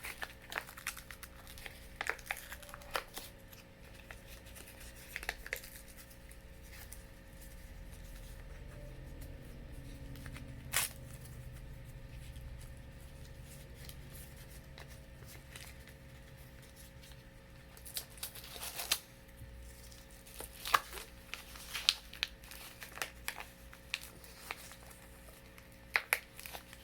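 Newspaper wrapping being torn and crumpled by hand as a toy is unwrapped: sharp rips and crackles come in bursts, with a quieter stretch in the middle.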